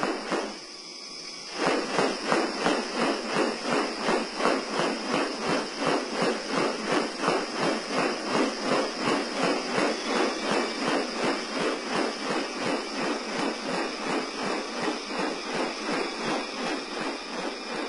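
Rainforest wildlife sound: a rapid, even pulsing call, about three pulses a second, over a steady high insect hiss. It starts about a second and a half in, after a brief sound at the very start.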